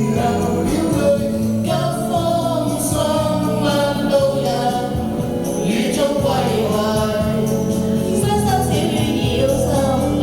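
Pop song: sung vocals over a backing track with steady bass.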